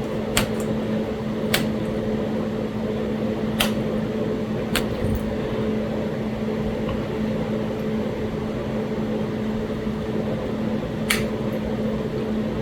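Pressure flaking on a Talahata quartzite biface: about five sharp, separate clicks spread irregularly as small flakes snap off the edge. A steady background hum runs under them.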